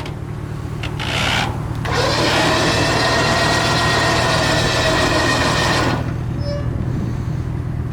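Trailer winch motor whining as it pulls a non-running 1961 Chevy C10 pickup up onto the trailer: a short burst about a second in, then a steady pull of about four seconds that stops abruptly. A vehicle engine idles underneath.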